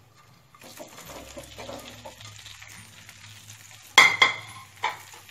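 Slit green chillies frying in hot mustard oil with ground spices, a faint, steady sizzle and crackle as they are stirred with a metal spoon. A sharp metallic clink rings out about four seconds in, the loudest sound, and a smaller one follows near five seconds.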